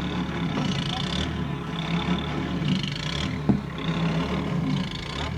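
A steady low motor hum, like a vehicle engine running, with a hiss that comes and goes about once a second.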